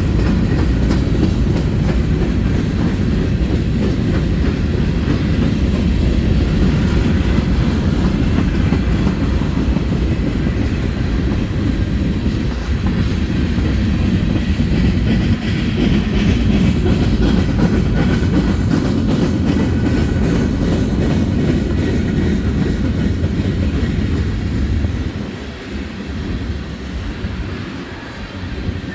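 Freight train cars rolling past close by, steel wheels clacking over rail joints over a steady heavy rumble. The sound eases off about 25 seconds in.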